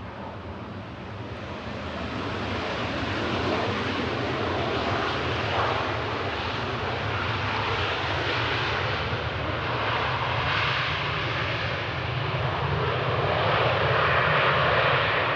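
Jet airliner passing at the airport, its engine noise growing louder over the first few seconds and staying loud.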